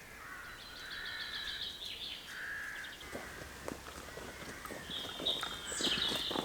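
Woodland birds calling with warbling phrases, and from about halfway on, rustling, crackling steps through dry leaf litter on the woodland floor.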